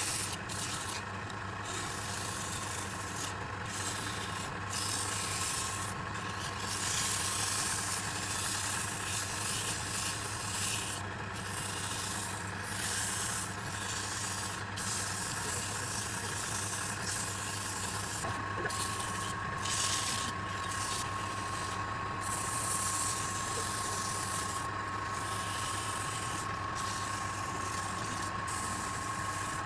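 Wood lathe running with a steady hum while sandpaper is pressed against the spinning redwood burl. The sanding hiss comes and goes in short breaks, and a thin steady whine joins a little past the middle.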